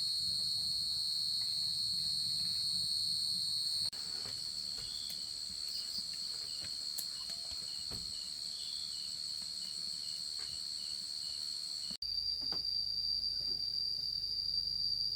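Forest insects droning steadily at a high pitch, with a fainter, faster pulsing chirp in the middle; the drone changes abruptly twice.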